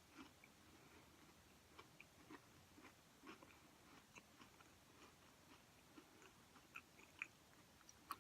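Faint chewing of a peanut butter chocolate granola cup, with small scattered crunches.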